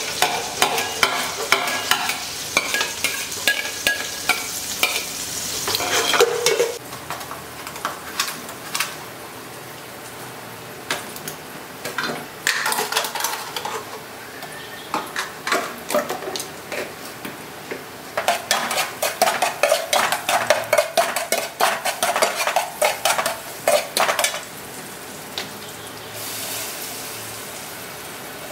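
Chopped aromatics sizzling in hot oil in an aluminium stockpot, stirred with a steel ladle that scrapes and clatters against the pot. A spatula scrapes ingredients off a plastic cutting board at first, and a run of quick ladle strokes comes in the second half.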